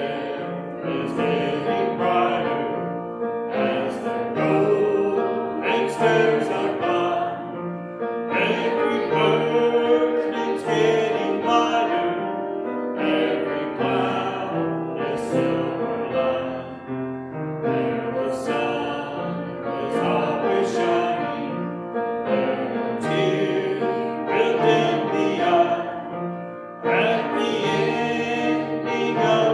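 Congregation singing a hymn in phrases with piano accompaniment.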